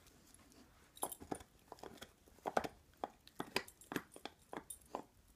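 A dog gnawing on an antler, making pig-like snorting noises as it chews. Short, irregular crunching and scraping sounds come about twice a second, starting about a second in.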